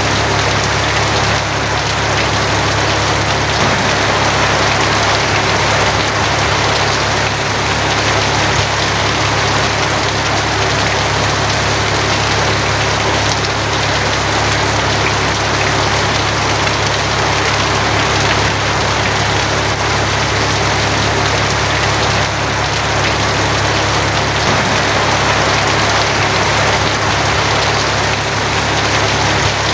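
Steady rain on a tin roof: a dense, even hiss with a constant low rumble underneath.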